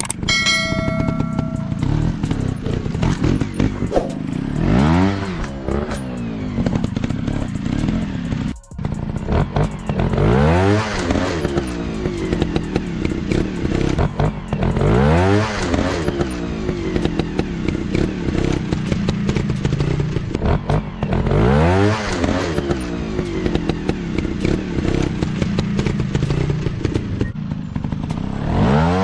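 Off-road dirt bike engines revving, rising and falling in pitch about five times, over a steady running note, with frequent clattering and knocks.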